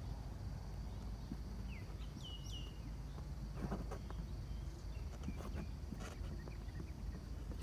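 A few short bird chirps about two seconds in, over steady outdoor background noise with scattered light taps and rustles.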